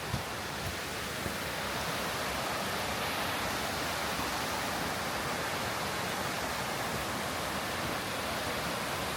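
Steady rush of a mountain stream or waterfall, growing slightly louder over the first two seconds, with a few faint ticks early on.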